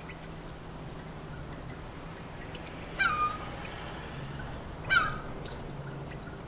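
Two short bird calls about two seconds apart, each dropping in pitch, over a low steady hum.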